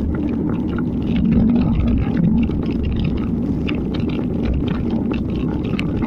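Wind rumbling on the microphone while riding in the rain, with a steady hiss and many small scattered ticks through it.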